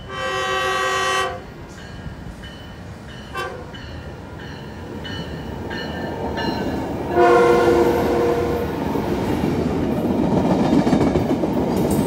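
Metrolink commuter train sounding its horn: a long blast at the start, a short one about three seconds in, and another long blast about seven seconds in. Under the later blast, the rumble of the passing train grows louder toward the end.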